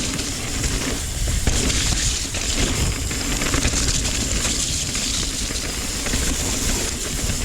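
Mountain bike descending a wet, rooty trail: steady wind rumble on the microphone with tyre noise and frequent rattles and knocks from the bike over the bumps.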